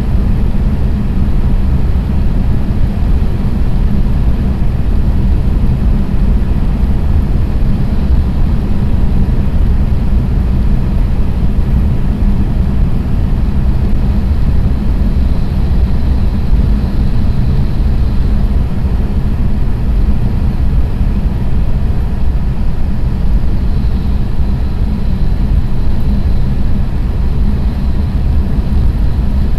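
Running noise heard inside a JR East E6 series Shinkansen cruising at about 300 km/h: a steady, loud, deep rumble. A faint high whine comes and goes in the second half.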